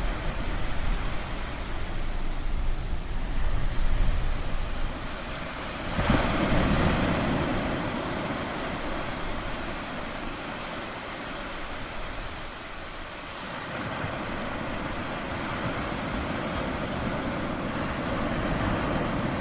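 Ocean waves washing on the shore, a steady hiss of surf, with one wave breaking loudly about six seconds in and slowly washing out. A low thunder rumble fades away in the first few seconds.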